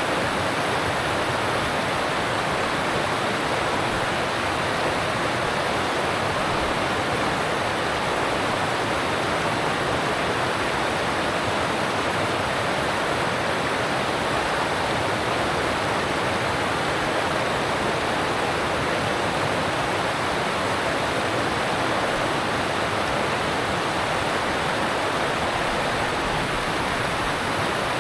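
Alpine stream rushing steadily over rocks, an even, unbroken rush of water.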